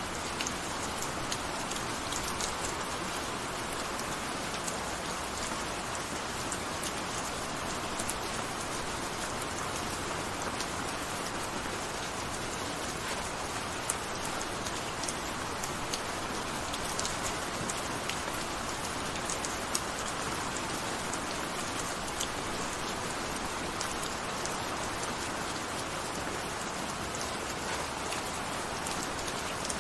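Steady gentle rain falling on a surface, an even patter with many small distinct drop ticks scattered through it.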